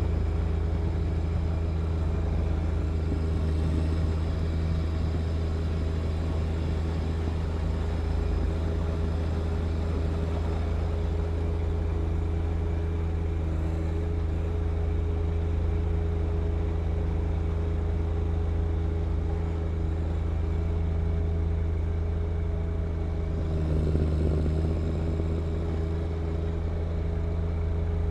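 John Deere 1025R compact tractor's three-cylinder diesel engine running steadily, with a brief swell about three-quarters of the way through.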